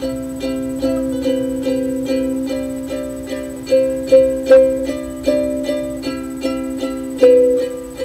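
Solo ukulele playing an instrumental interlude between sung verses, fingerpicked notes in a steady repeating pattern with a few louder accented strums.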